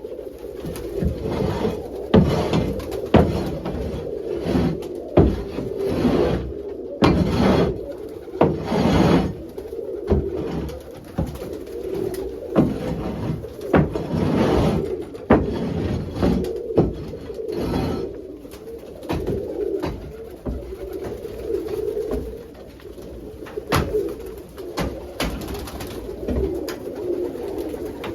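Domestic pigeons cooing steadily in a coop, with scattered knocks and scuffs throughout.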